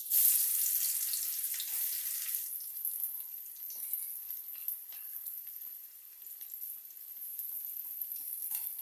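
Chopped onions tipped into hot oil with cumin and garam masala: a sudden loud sizzle, strongest for the first couple of seconds, then settling to a steady frying hiss with a few faint clicks.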